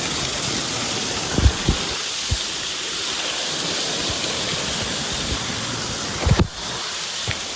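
Steady rushing hiss of falling water from a rainfall, with a few brief low thumps about one and a half seconds in and again near six seconds in.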